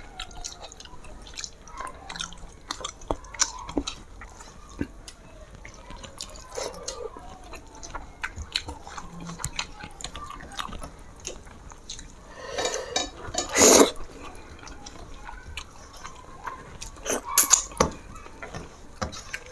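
Close-up eating sounds of a rice and fish-curry meal: wet mouth smacks and chewing as a string of short, sharp clicks, with a few louder smacks about 13 and 17 seconds in.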